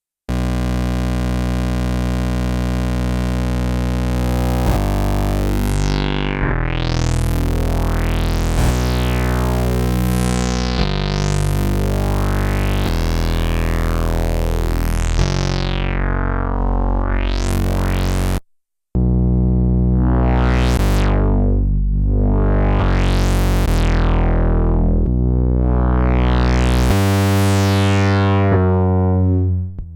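Sequential analog polyphonic synthesizer playing sustained chords over a changing bass, with the filter repeatedly sweeping up and down so the tone brightens and darkens. It stops briefly about two thirds of the way in, then carries on with faster sweeps.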